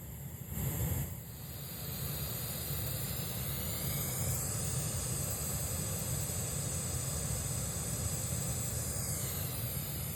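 Steady static hiss from a Bose S1 Pro PA speaker that is cabled to a Bose Sub2 subwoofer: unwanted white noise that appears only on the wired connection, of unknown cause.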